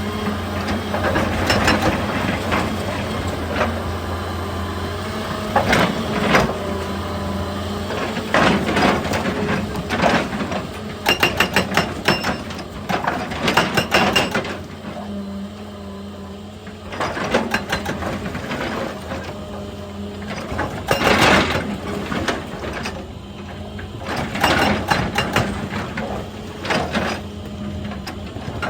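Excavator engine running steadily while its hydraulic breaker hammers rock in bursts of rapid knocks, with crunching stone between the bursts.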